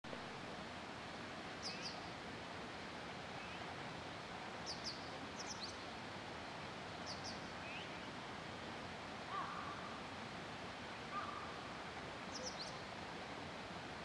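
Small birds chirping: short, high double chirps every couple of seconds, with two lower calls about two-thirds of the way through, over a steady hiss of outdoor background noise.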